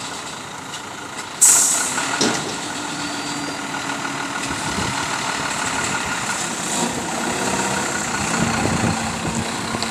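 Vehicle engine idling steadily, with a sudden short hiss of air about a second and a half in.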